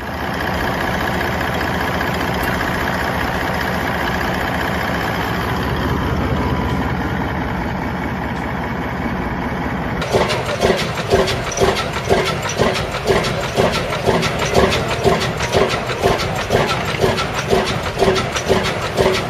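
Caterpillar C32 V12 diesel engine running steadily. About halfway through it cuts abruptly to a different engine running with a slow, even beat of about three strokes a second.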